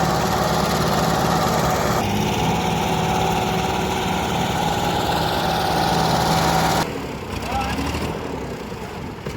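Tractor diesel engine running steadily. About seven seconds in, the sound cuts abruptly to a quieter, lower engine sound.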